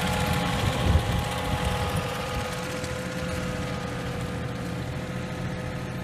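John Deere tractor engine running steadily, with a single thump about a second in.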